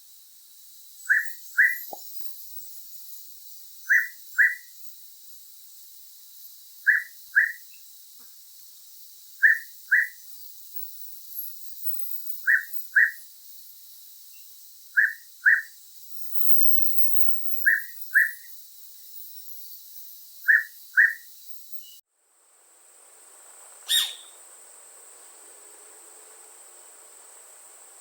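Western hooded pitta calling: a loud double whistle repeated about every two and a half to three seconds. The calls stop a little before the end, when a fainter background with a single sharp click takes over.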